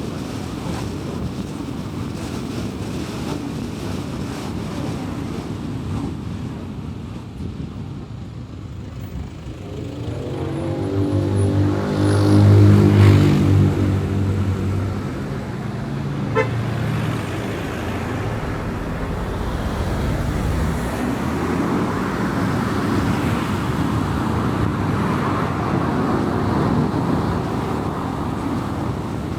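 Car driving at speed: steady tyre and road noise. About a third of the way in, a deep droning engine note from another vehicle swells up, is loudest for a couple of seconds, and fades away again.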